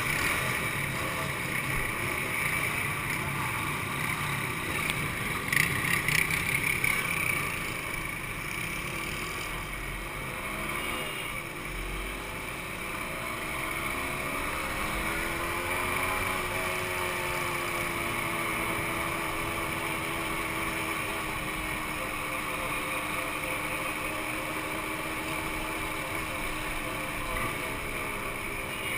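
Two-stroke motorcycle engines running, their pitch slowly rising and falling, with a louder stretch about six seconds in.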